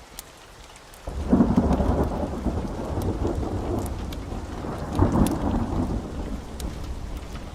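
Steady rain with scattered drop ticks; about a second in, a loud rolling thunderclap breaks in, swells again a few seconds later, then slowly rumbles away under the rain.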